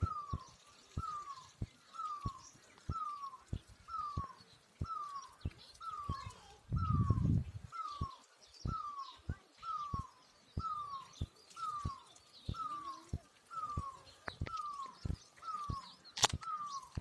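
A bird repeating one short, falling note evenly, a little under twice a second, with fainter chirps of other birds behind it. A brief low rumble about seven seconds in and a sharp click near the end.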